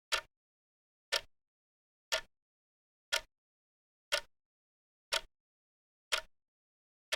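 Clock ticking once a second: single sharp ticks, evenly spaced, with silence between them.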